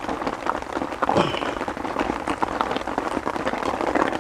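Heavy rain falling, a dense, steady patter of drops, with one brief sound falling in pitch about a second in.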